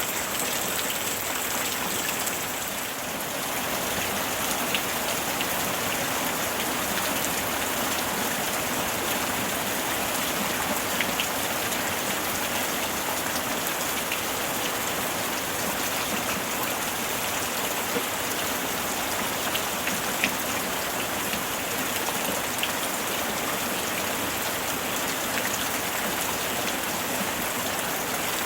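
Steady summer rain falling on a surface, with scattered louder individual drops.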